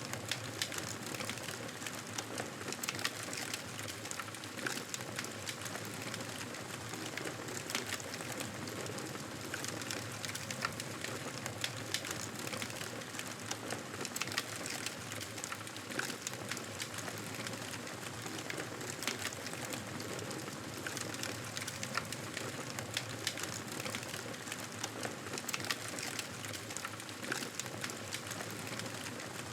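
Wood fire in a fireplace crackling: a steady bed of noise dotted with frequent small pops and snaps.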